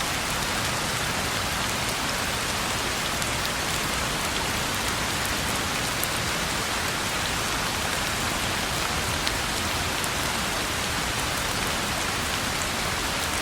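Steady rain falling on a road, an even hiss with a few sharper drop hits standing out.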